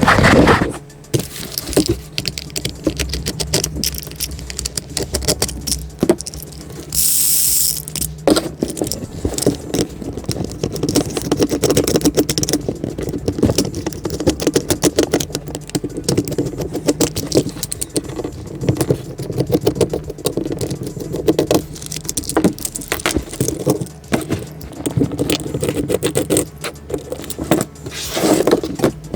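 Small clicks and rattles of plastic parts and tiny screws being handled as a Trackmaster toy locomotive is taken apart, with a short hissing burst about seven seconds in.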